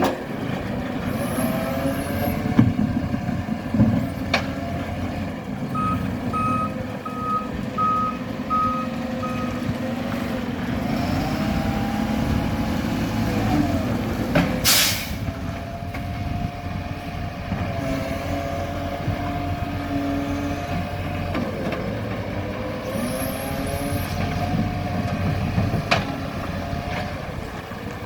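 Garbage truck's engine running and changing pitch as it revs up and down, its reversing alarm beeping steadily for a few seconds, and a sharp hiss from the air brakes about halfway through.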